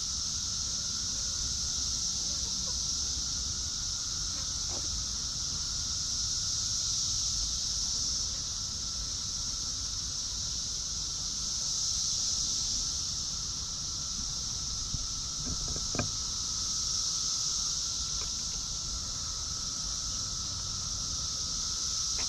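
A steady, high-pitched insect chorus that swells and eases slowly, over a thin steady tone. There is a short sharp click about sixteen seconds in.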